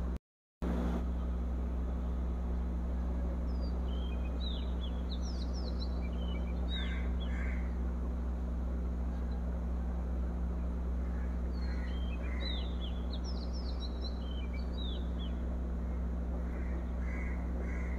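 Steady low hum and hiss of room background, with two spells of small birds chirping, the first about four seconds in and the second about twelve seconds in. The sound cuts out completely for about half a second right at the start.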